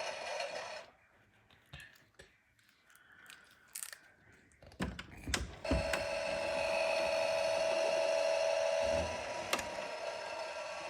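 Small electric motor of a toy washing machine whirring with a steady whine. It stops about a second in, a few clicks and knocks follow, and it starts again near six seconds, the whine easing off about nine seconds in.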